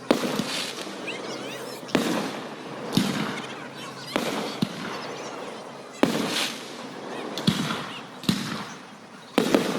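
Aerial fireworks shells bursting: a string of sharp bangs roughly every one to two seconds, each trailing off in crackle and echo, with two bangs close together near the end.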